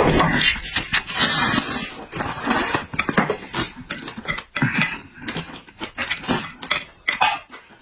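Close-up eating noises: wet chewing, smacking and slurping of pork and noodles in irregular bursts.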